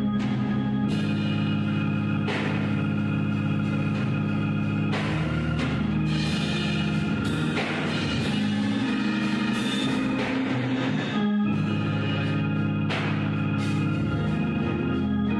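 Organ music: sustained chords held and changing every few seconds, with sharp percussion hits at irregular intervals.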